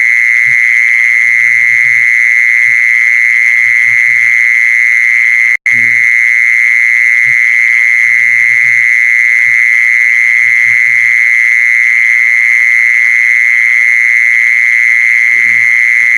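A continuous, rapidly pulsed high-pitched trill of an animal call, played as a lure to attract a female. It runs without a break except for a momentary dropout about five and a half seconds in.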